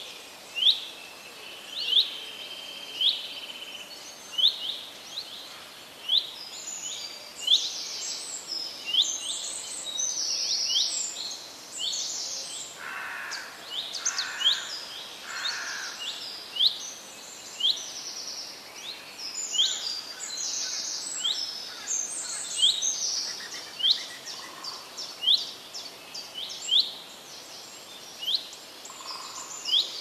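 Several birds chirping over a steady background hiss. One bird repeats a short rising chirp about once a second, other birds' faster, higher twittering joins about six seconds in, and a lower call sounds three times near the middle.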